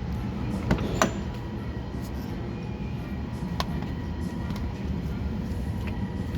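Steady low hum with a few short, sharp clicks and knocks from the scan tool's vehicle interface and its cable being handled.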